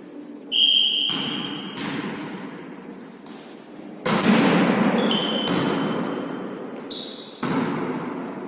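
A volleyball being struck and bouncing in a reverberant hall: about six sharp smacks, each ringing out, with short high squeaks near the start and in the middle.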